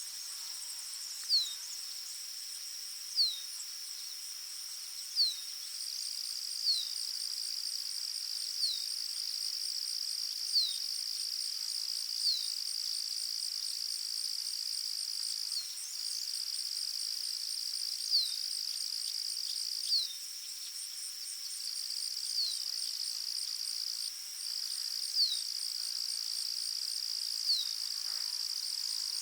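Forest ambience of insects trilling steadily at a high pitch, with a second fast-pulsing insect layer above it. A short, falling chirp repeats about every two seconds throughout.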